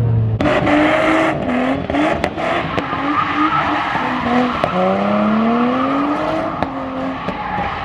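A car doing donuts: the tyres squeal steadily while the engine revs up and down, its pitch climbing in repeated sweeps.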